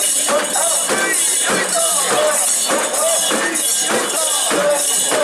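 A portable shrine (mikoshi) being carried: its metal rings and ornaments jangle in a steady rhythm, about twice a second, over the massed chanting voices of the bearers.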